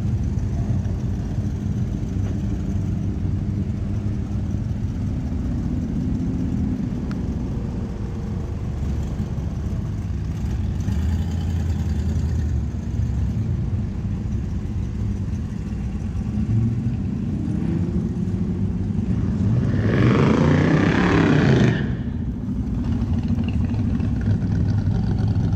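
Cars and trucks running as they drive past, with a steady low engine rumble. About twenty seconds in, a loud burst of engine and exhaust noise lasts about two seconds and cuts off suddenly.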